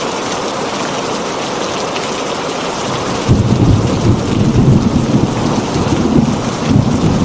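Steady heavy rain drumming on a tin roof; just over three seconds in, a loud low rumble of thunder starts suddenly and keeps rolling under the rain.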